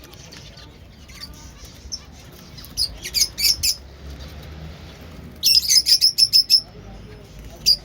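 Pet finches chirping: a short cluster of high chirps about three seconds in, then a quick run of about ten chirps a little after five seconds, and a single chirp near the end.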